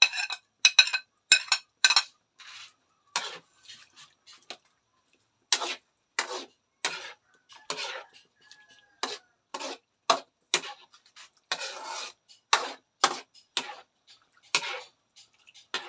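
Metal spatula stirring pork liver in a pan: a string of separate knocks and scrapes against the pan, one or two a second, the first few ringing like metal clinks.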